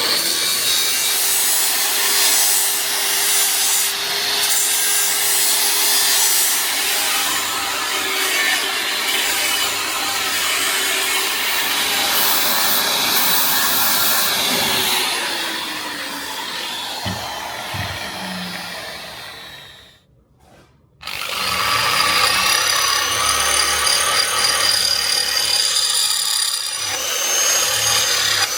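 Power tool running and abrading material in a steady noisy rasp. About two-thirds of the way through it dies away, falls silent for about a second, then starts again with a rising whine as it spins up.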